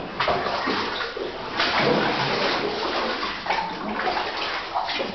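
Kayak paddles dipping and splashing in water in uneven strokes, with louder sloshing about two seconds in.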